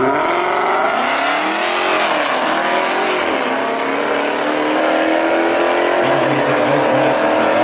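Drag race cars launching off the line and accelerating hard down the strip. The engine pitch climbs steeply and drops with upshifts about two, three and six seconds in.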